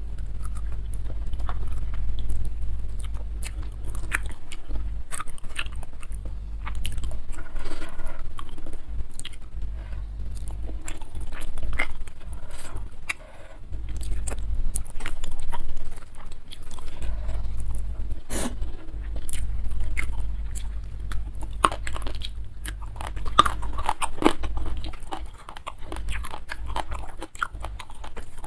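A person eating food by hand close to the microphone: wet chewing and crunching with many irregular sharp mouth clicks and smacks.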